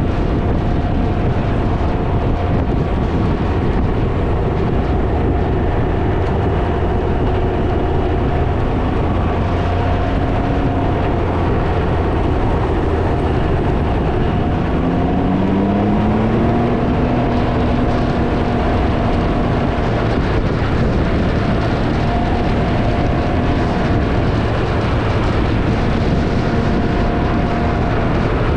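Can-Am Ryker three-wheeler riding at road speed, its engine running under heavy wind buffeting on the microphone. The engine note rises once about halfway through, then holds steady.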